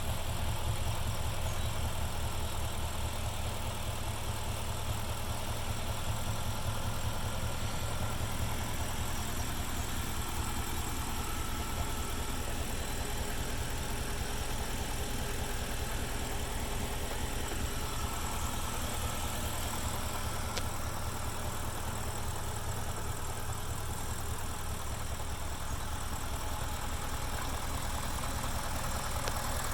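2004 BMW X5 4.8is's 4.8-litre V8 idling steadily after starting: an even, low rumble.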